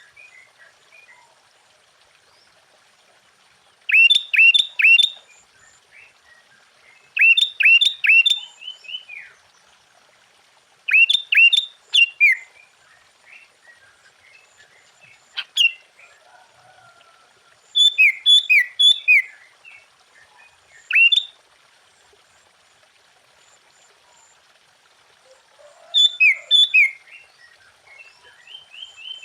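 Sooty-headed bulbul singing: short bursts of three or four quick, clear notes, repeated every three or four seconds with pauses between.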